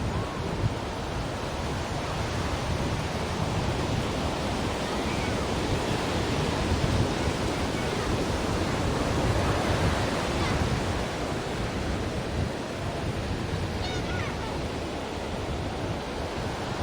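Ocean waves breaking and washing on a shore in a steady, continuous rush of surf, swelling and easing gently.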